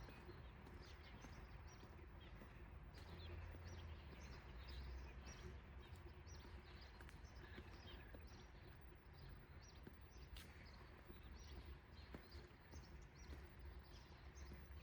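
Faint chirping of small birds, many short calls scattered throughout, over a steady low rumble of distant city traffic.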